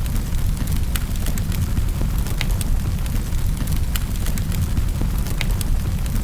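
Wood fire crackling in a fireplace: sharp irregular pops, a few a second, over a steady low rumble of the flames.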